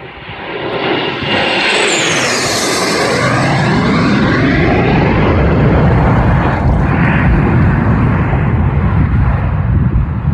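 Airplane passing low overhead during an airshow practice: its engine noise swells over the first few seconds, and a high whine falls in pitch as it goes by. A loud, steady rumble follows as it moves away.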